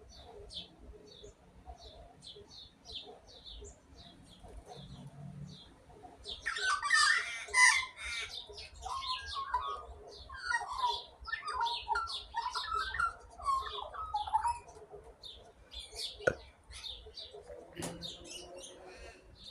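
Australian magpie calling close by, a loud run of rich warbling notes through the middle, over short high chirps that go on throughout. Two sharp knocks near the end.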